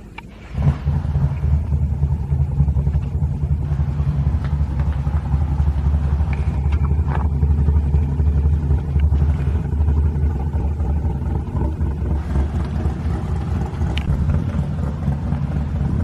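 Car engine running with a deep, steady low rumble that comes in suddenly and loud about half a second in.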